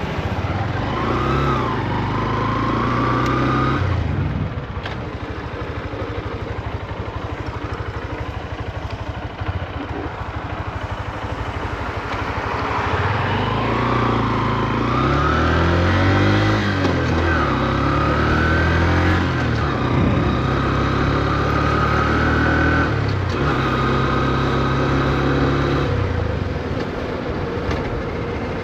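Honda CB125F's 124 cc air-cooled single-cylinder engine pulling the bike along in city riding, kept at low revs while the new engine is run in. It accelerates over the first few seconds, eases off about four seconds in and runs quietly for a while. About halfway through it accelerates again through several upshifts, each a rising note cut short, then holds a steady cruise.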